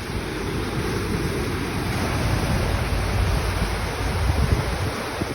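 Wind buffeting the microphone over a steady rush of water and surf, with heavy low rumble.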